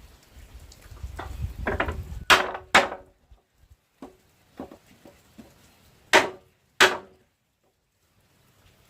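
Hard blows of a tool on wood: two pairs of loud strikes about half a second apart, with lighter knocks between them.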